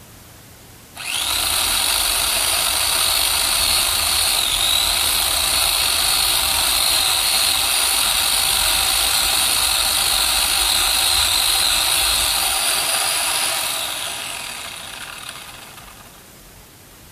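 Electric chainsaw motor switched on with a sudden start about a second in, running at a steady high whine, then winding down and fading out over the last few seconds.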